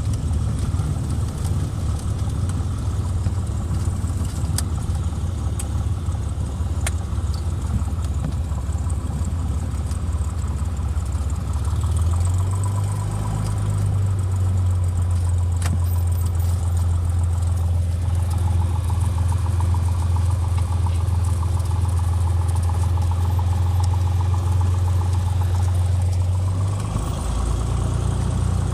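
Cessna 182's piston engine and propeller running at low power, heard from inside the cabin. The engine note shifts pitch about a third of the way in and again near the end as the power changes.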